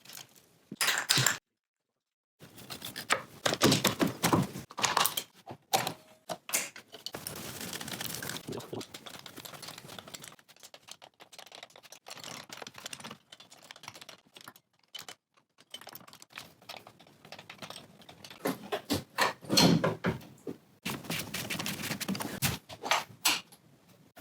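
Workshop sounds of hand tools on metal: quick runs of clicks, clanks and knocks, broken by a short silence about two seconds in and loudest around four and twenty seconds.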